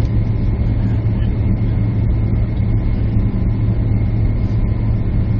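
Steady jet airliner cabin noise: an even rush of engine and air noise with a deep constant hum.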